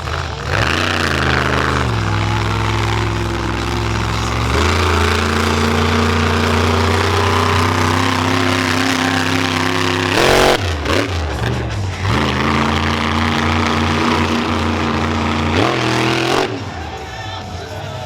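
Monster truck engine running hard at high revs, holding a steady pitch between throttle changes, with a sharp drop and climb in revs about ten seconds in. It eases off near the end, leaving music playing over the arena.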